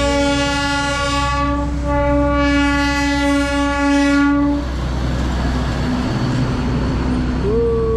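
Train horn sounding one long, steady blast of about four and a half seconds, over the low rumble of the running locomotive. A second, shorter hoot comes near the end.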